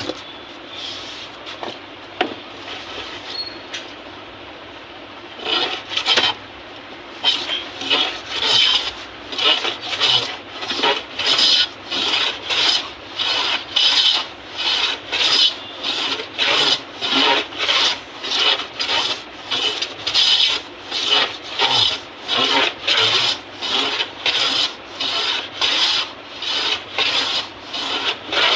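A bladed hand tool shaving teak wood on a harmonium, levelling the surface in quiet strokes at first, then a steady run of about one and a half scraping strokes a second from about five seconds in.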